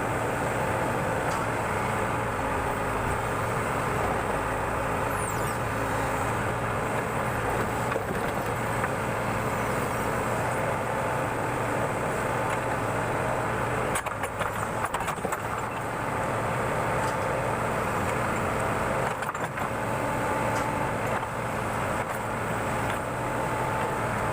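Backhoe loader's diesel engine running steadily while the machine digs, with a couple of brief dips in level partway through.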